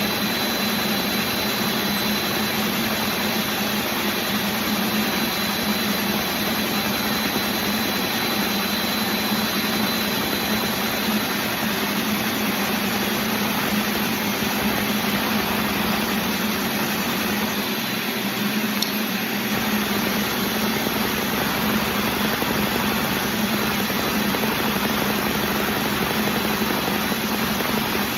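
LEGO model engine running steadily at idle: a continuous mechanical whir with a steady low hum.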